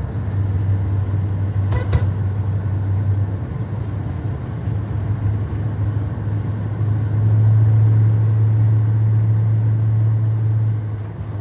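A 1997 Ford F-250 HD pickup heard from the cab while being driven: a steady low engine and road drone that swells for about four seconds in the second half and then eases off near the end. A brief click about two seconds in.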